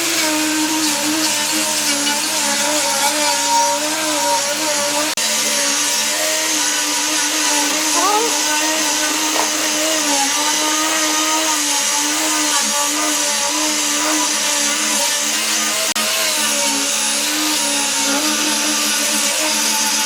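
Electric power tool running continuously: a steady motor tone that wavers slightly in pitch, over a hiss.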